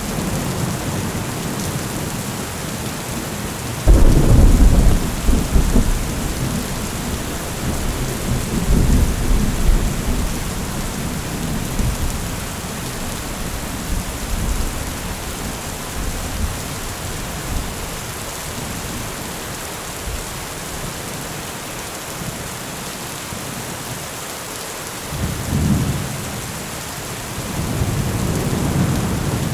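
Heavy rain falling steadily, with thunder: a sudden loud thunderclap about four seconds in that rumbles on for several seconds, and further low rumbles of thunder near the end.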